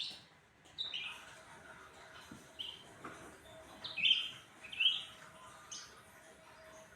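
Cucak ranting songbird calling in a series of short, sharp chirps, some sweeping up and some down in pitch, irregularly spaced, with the loudest pair about two-thirds of the way through.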